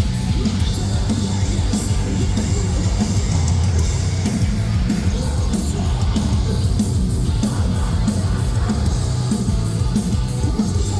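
Metalcore band playing live and loud: distorted guitars and bass under pounding drums and cymbals, with vocals.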